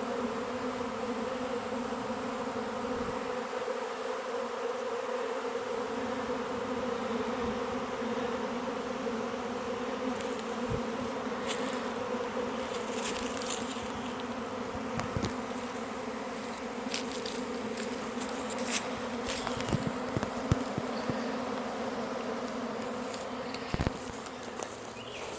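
A large honey bee swarm buzzing: a dense, steady hum of thousands of bees in the air close around the microphone, with a few brief clicks in the second half.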